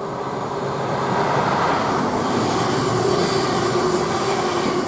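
Lumo Class 803 electric multiple unit passing through the station at speed. It is a rush of wheels on rail and air that grows louder over the first couple of seconds, then holds steady with a faint hum under it.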